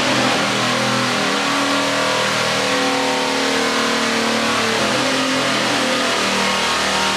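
Big-block V8 engine running hard on an engine dyno: a loud, steady engine note whose pitch shifts slightly.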